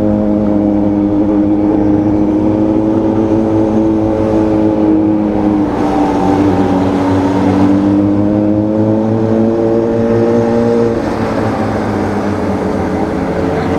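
Motorcycle engine running under way at steady road speed over a rush of wind. The engine note dips a little around six seconds in, climbs slowly, then drops suddenly just before eleven seconds, as with an upshift or the throttle being eased, and holds steady after.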